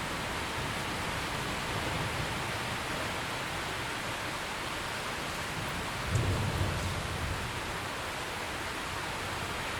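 Steady rain falling. About six seconds in there is a brief low rumble of thunder that fades within a second.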